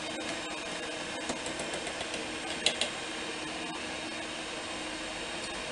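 Steady fan-like whirring hiss. A few light ticks come through it, and then, a little under halfway in, two sharp clicks close together.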